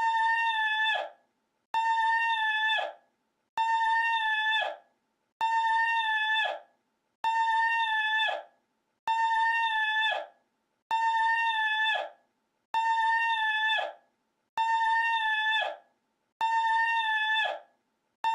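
A looped high-pitched held vocal cry, the same clip repeated about ten times at even spacing of just under two seconds. Each cry holds one steady pitch for about a second, then drops and cuts off.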